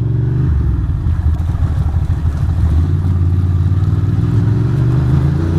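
Ducati Monster motorcycle's V-twin engine running as the bike rides along, its note steady with a few small shifts in pitch.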